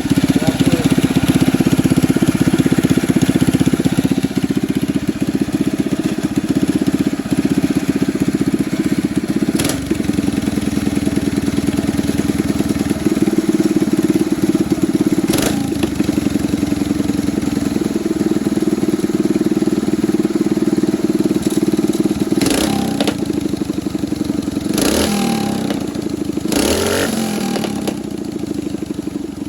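A Coleman mini bike's single-cylinder small engine running steadily, with a few sharp short noises over it and the sound easing off toward the end.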